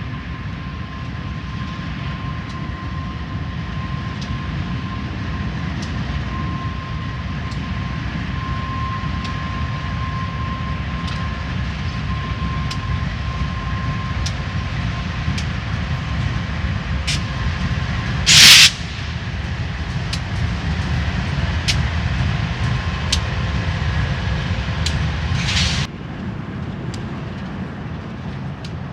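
BNSF train passing with a steady low rumble and scattered sharp clicks from the wheels. A faint steady high whine runs through the first half. Two short loud hisses come about 18 and 25 seconds in.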